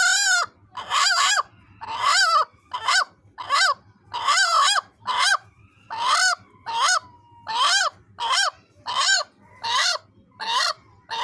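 A hen giving a loud, repeated bark-like call, about fifteen calls in a row, each with a pitch that rises and falls, roughly one every 0.7 seconds: a defensive call while guarding her egg.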